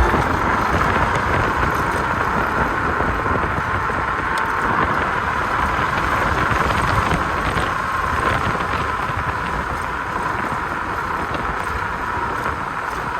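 Riding a 5,600-watt, 60-volt electric scooter at speed: wind rushing over the microphone and tyre noise, with a steady high whine.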